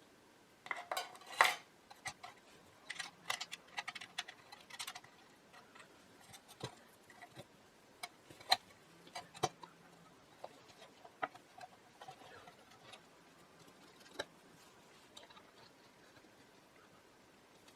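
Small metal parts and hand tools clicking and clinking as they are handled during reassembly of a radio. Short rattling clusters come about a second in and again around three to five seconds in, then scattered single clicks.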